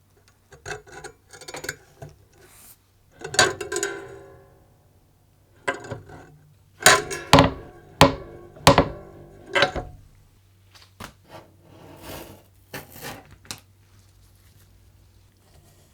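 Metal parts being handled and knocked together in a workshop: a run of irregular knocks and clinks, several ringing briefly, over a faint steady low hum.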